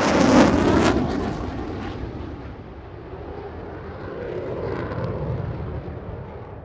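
Jet airliner engine noise, a steady rushing roar that is loudest in the first second, fades over the next two, and swells again briefly around five seconds.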